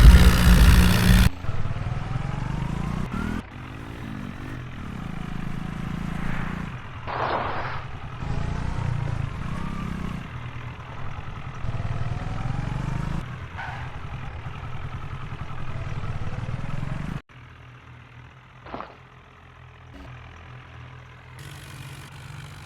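Tractor engines running, in several clips cut together, with abrupt changes in the engine sound.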